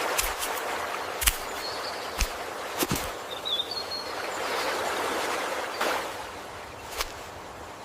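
Natural outdoor ambience: a steady soft rushing noise that swells a little past the middle and eases off near the end, with a handful of sharp clicks through it and a brief high chirp around the middle.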